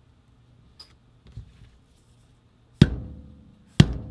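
Two sharp hammer blows about a second apart, each leaving a short ringing, as a stuck part is knocked out of an Angel LCD paintball marker using the wooden part of a hammer. A fainter tap comes before them.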